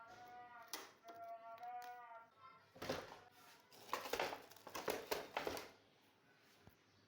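A crow cawing several times in the background, then about three seconds in a stretch of rustling and clattering handling noise.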